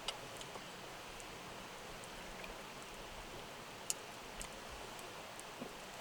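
Steady murmur of a forest stream, with a few sharp crackles from a wood campfire, the clearest just after the start and about four seconds in.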